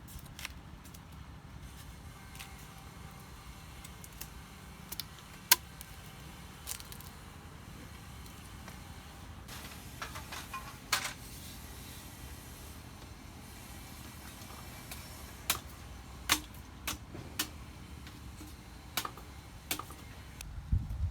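Scattered sharp clicks and knocks, about a dozen, the loudest about five and a half seconds in, over a steady low rumble.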